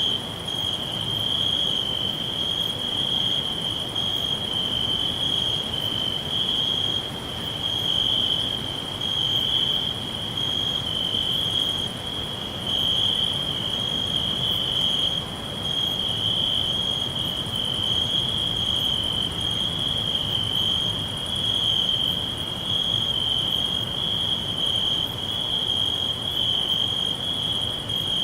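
Crickets chirping continuously in a steady high trill that swells and fades gently about once a second, over a soft background hiss.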